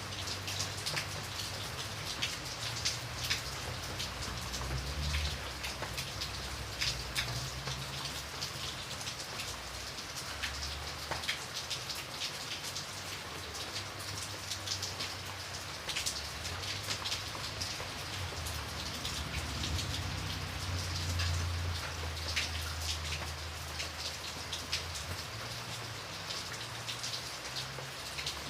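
Steady rain falling, with many individual drops ticking sharply on a surface over an even hiss and a low, shifting rumble underneath.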